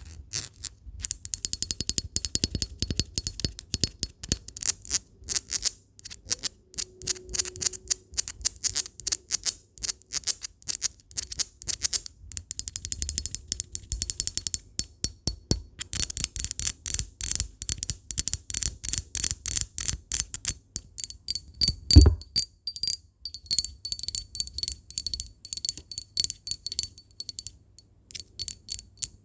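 Rapid tapping on glass in quick flurries, each tap sharp and light, with a faint high ringing from the glass. One heavier knock stands out about two-thirds of the way through.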